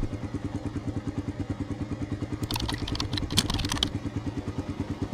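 Royal Enfield Himalayan's 411 cc single-cylinder engine idling with an even beat of about a dozen pulses a second. A quick run of light clicks comes about halfway through.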